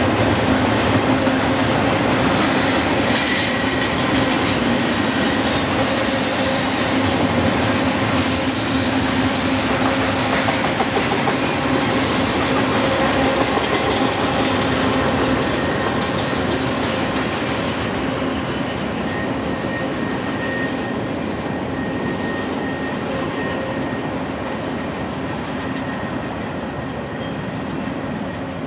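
Double-stack intermodal container cars of a long freight train rolling past on the rails, the wheel and rail noise slowly fading as the train draws away. A steady high wheel squeal comes from the cars rounding the curve.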